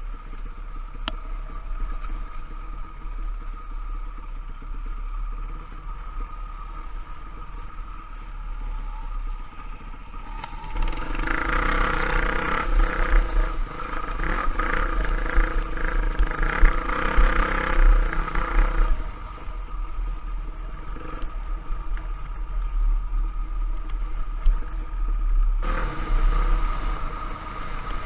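Trail bike engine running as it rides along. From about 11 to 19 seconds in it gets louder and harsher, the engine pulling harder, then it settles back to a lighter, steadier run.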